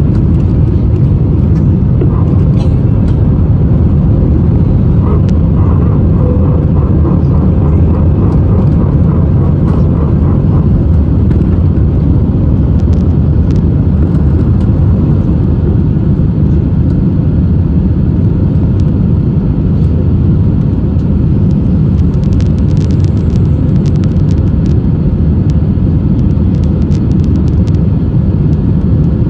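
Steady, loud low rumble of an Airbus A320 in flight, its engines and airflow heard from inside the passenger cabin.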